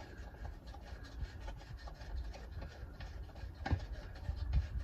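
Faint scraping and light clicks of exhaust parts being shifted by hand against their mounting bracket, with one louder knock about three and a half seconds in.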